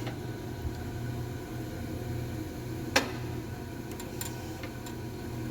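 Cincinnati Milacron universal hydraulic grinder running with a steady motor and hydraulic hum as its head traverses under power on an automatic step-feed cycle. A sharp click comes about three seconds in, and a few lighter clicks follow about a second later.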